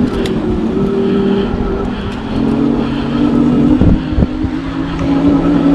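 The Engwe Engine Pro e-bike's electric hub motor whines steadily while under way, its pitch stepping up a little about halfway through as the bike speeds up. A low rumble from tyres and wind runs underneath.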